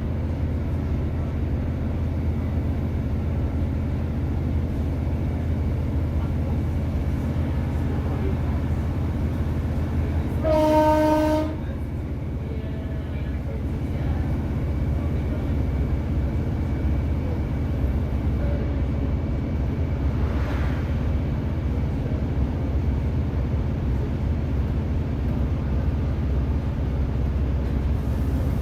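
Running noise of a Class 150 diesel multiple unit, a steady low rumble of the underfloor diesel engine and wheels on the rails. About ten seconds in, a train horn sounds once: a single steady note lasting about a second.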